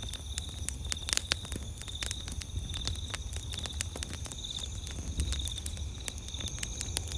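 Campfire crackling, with frequent sharp pops, over a steady high chirring of night insects.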